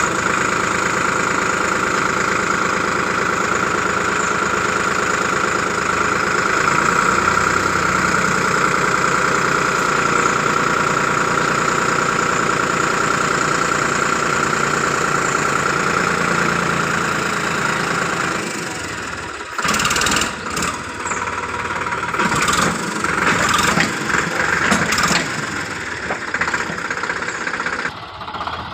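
A tractor's diesel engine running steadily. After about eighteen seconds its steady note falls away and a series of irregular, loud bursts of noise takes over.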